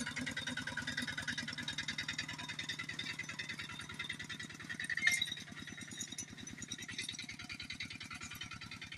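Kubota RT single-cylinder diesel engine of a two-wheel tractor running steadily with a rapid, even chugging beat while tilling soil. A short, louder sound stands out about five seconds in.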